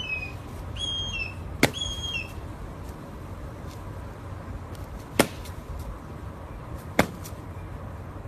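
A bird gives three short, clear chirps, each bending slightly down, in the first two seconds. Three sharp knocks come a couple of seconds apart, the first among the chirps.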